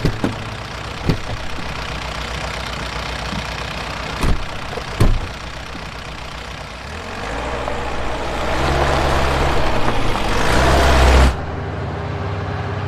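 Vehicle engine idling, with several sharp knocks like doors shutting in the first few seconds, then the engine revving up as it pulls away, louder for a few seconds before cutting off abruptly.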